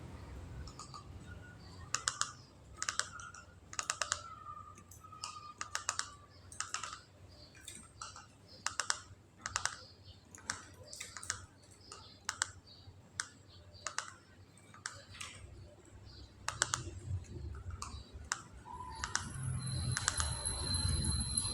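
Zebra dove (perkutut) making its 'ngretek' call: a run of sharp, irregular clicking ticks, some with a brief low tone. Near the end a thin, steady high whine comes in.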